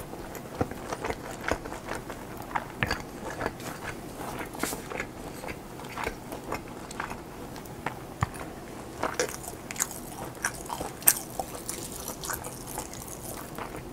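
A person chewing and biting food close to the microphone, ASMR-style, with irregular short clicks and smacks several times a second.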